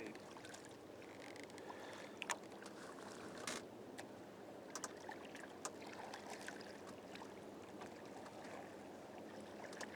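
Faint water lapping around a kayak, with a few scattered light taps and drips.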